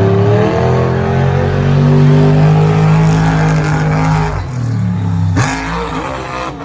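Monster truck engine running hard at high revs, its pitch climbing slowly, then backing off about four and a half seconds in. A sharp noisy burst follows about a second later.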